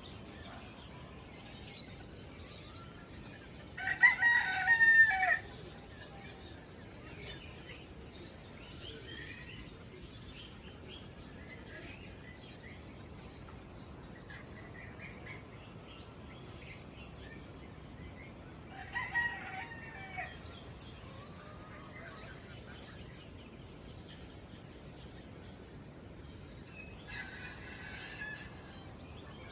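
A rooster crowing three times, the first crow the loudest, over the steady twittering and chirping of many small caged birds.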